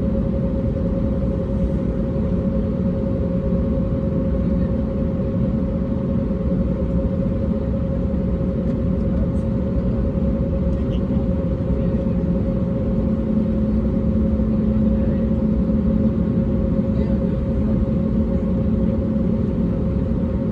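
Cabin noise of an Airbus A320neo in flight: a steady drone of engines and airflow with a constant hum, and a lower hum joining about two-thirds of the way through.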